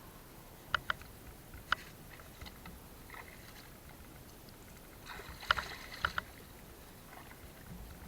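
Water splashing and knocking, with a few sharp clicks about a second in and a short burst of splashes about five seconds in.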